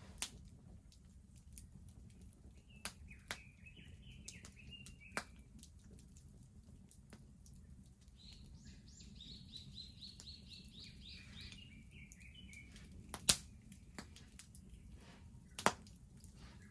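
Wood bonfire crackling with scattered sharp pops, the two loudest about 13 and 15.5 seconds in, over a low steady rumble. A small bird sings a short phrase around 3 to 5 seconds in and a longer trilled song from about 8 to 12 seconds.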